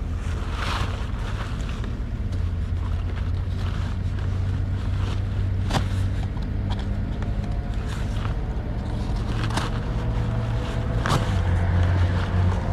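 Truck engine idling steadily, with a few sharp knocks or clicks over it.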